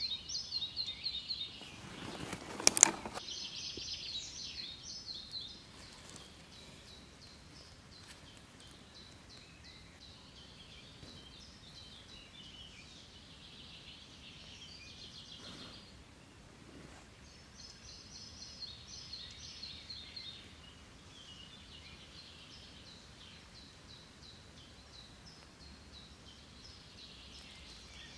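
A songbird singing repeated short high phrases of notes that step downward in pitch, with pauses between them, over faint steady outdoor background. A loud brief crack close to the microphone about three seconds in, and a couple of faint knocks later.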